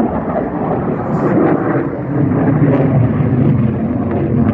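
Aircraft flying low overhead, a loud engine noise that grows louder about two seconds in, with crowd voices underneath.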